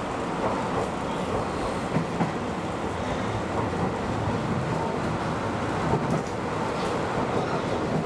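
Keio Inokashira Line electric train running at speed: a steady rumble of wheels on rail, with a few brief knocks.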